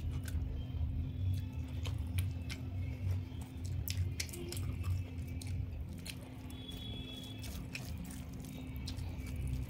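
Close-up eating sounds: chewing, with short wet mouth clicks and smacks scattered irregularly over a steady low hum.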